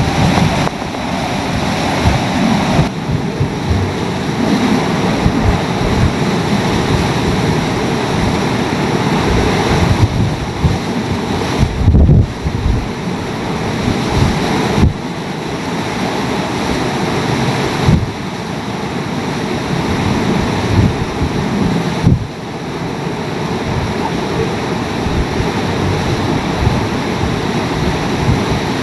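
Hurricane-force wind blowing hard and steadily, swelling and easing in gusts every few seconds, with heavy wind buffeting on the microphone.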